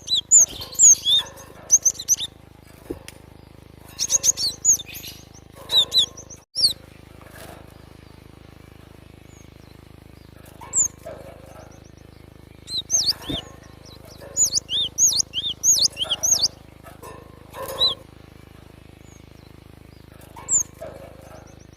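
Cinereous tit (glatik batu) singing: clusters of quick, high chirping notes, with pauses of one to a few seconds between the clusters.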